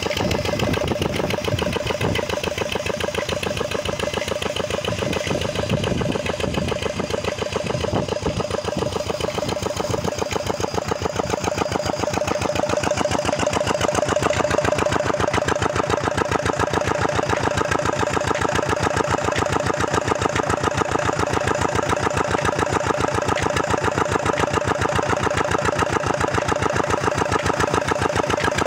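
An engine running steadily with an even, rapid beat, getting a little louder about halfway through.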